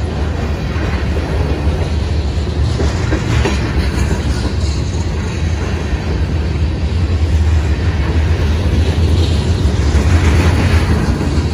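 Freight train of covered hopper cars rolling past close by: a steady low rumble of steel wheels on rail, with wheel noise swelling several times as the cars' trucks go by.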